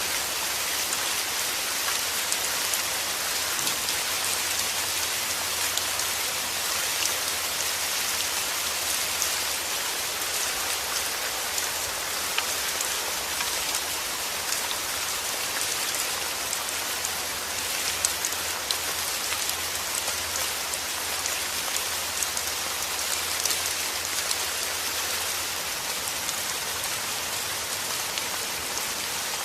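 Steady rain falling on a surface, a dense even hiss with many individual drop ticks.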